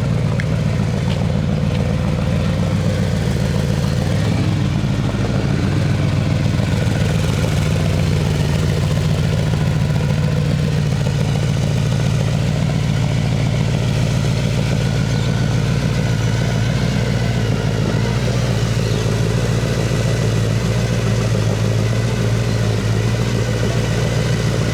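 Hot rod's V8 engine idling steadily, with no revving.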